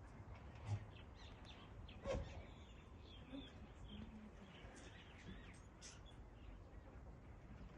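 Faint chirping of birds over low background noise, with two brief soft knocks early on.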